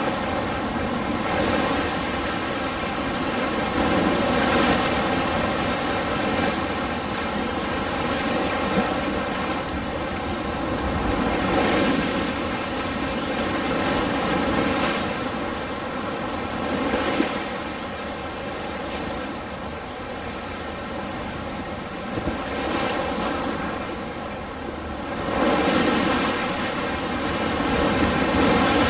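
Ocean surf breaking and washing ashore: a continuous rush of water that swells louder every few seconds as each wave breaks, then eases off.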